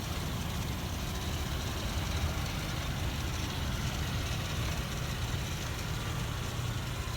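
2005 Ford Explorer Sport Trac's 4.0-litre V6 idling steadily, running smooth.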